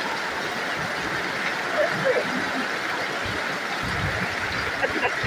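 Steady rain falling, an even hiss that doesn't let up, with faint voices in the background.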